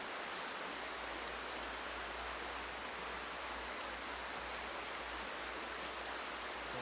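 Steady rushing of river water, an even hiss with a few faint clicks.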